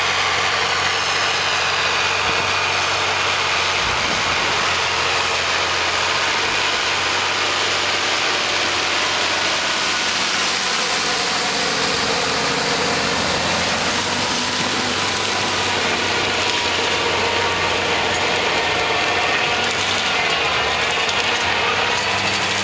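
Milling machine running and cutting: a steady mechanical noise, with a faint whine that shifts in pitch in the second half.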